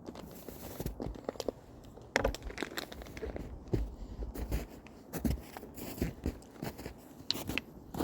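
Footsteps crunching on snow, about two steps a second, on a snowy hiking trail.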